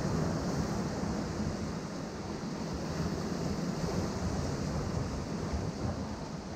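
Ocean surf breaking and washing among rocks, a continuous rushing of water that eases a little after the first couple of seconds, with low wind rumble on the microphone.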